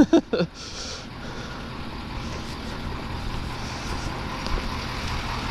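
A vehicle engine idling steadily, growing slightly louder over the seconds.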